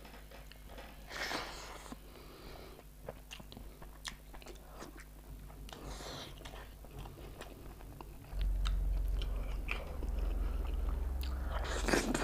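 Close-up mouth sounds of eating curry and rice by hand: wet chewing with small clicks and smacks, and louder noisy bites a little after one second, around six seconds and near the end. A low hum starts suddenly about eight seconds in.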